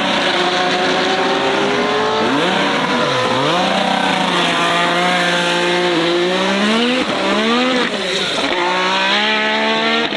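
A high-performance car's engine revving hard, its pitch climbing and dropping several times in quick succession, as in a drift or burnout run.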